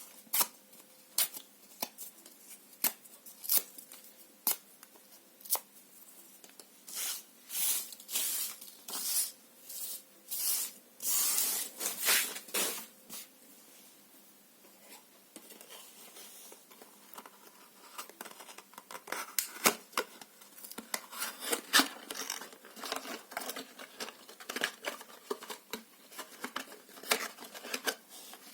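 Paper and cardboard tearing: scattered short rips, then a run of longer tearing strokes, a quieter stretch, and dense crackling tears in the second half.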